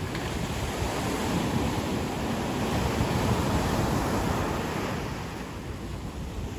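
Ocean surf washing onto a beach: a steady rushing of waves that swells about three seconds in and eases off toward the end.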